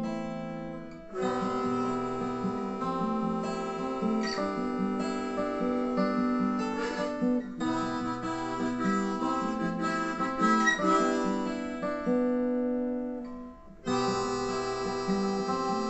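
Acoustic guitars playing an instrumental break, with long held melody notes over the strumming. The music dips briefly near the end, then comes back in.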